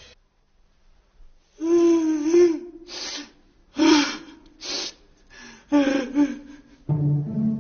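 A cartoon character's voice making a run of about five short wordless gasps and cries, after a second and a half of silence. Music comes in near the end.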